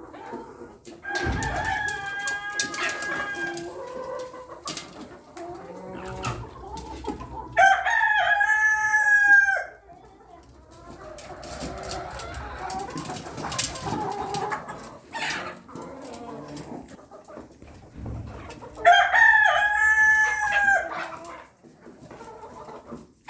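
Chickens clucking, with a rooster crowing twice, about eight seconds in and again about nineteen seconds in; each crow lasts about two seconds.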